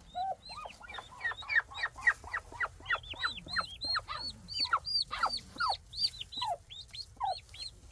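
A flock of poultry calling over one another, a quick run of short high cheeps and downward-sliding calls several times a second.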